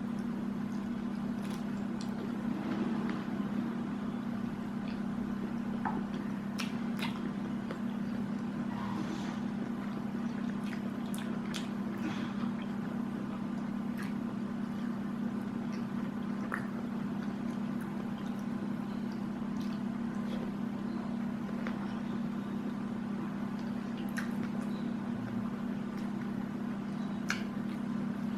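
Close-miked eating: wet chewing and squishy mouth sounds with scattered small clicks and smacks, over a steady low hum.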